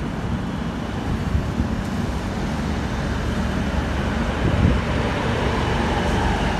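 DEMU (diesel multiple-unit) train running past along the platform: a steady rumble of coach wheels on the rails, a little louder near the end as the grilled diesel power car goes by.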